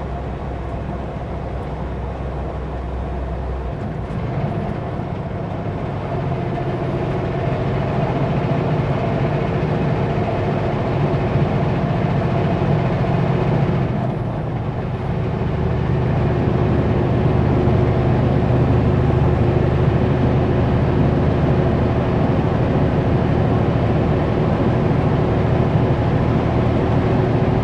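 Kenworth W900L semi-truck's diesel engine running under way with steady road noise. The engine tone changes about four seconds in and dips briefly near the middle, then comes back louder.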